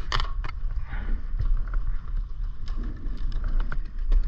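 Mountain bike drivetrain running with the new 8-speed chain and rear derailleur just adjusted: scattered sharp clicks and knocks from the chain and gears over a steady low rumble.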